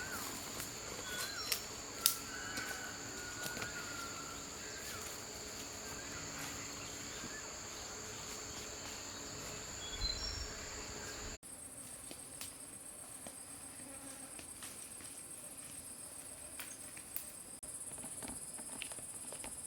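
Steady high-pitched drone of forest insects, with a few short bird chirps and scattered light knocks in the first half. About eleven seconds in, it changes suddenly to a different, higher insect drone.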